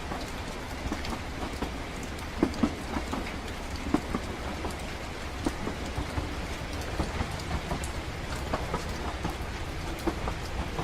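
Steady low rumble of a passenger train running, with scattered light ticks and taps over an even hiss.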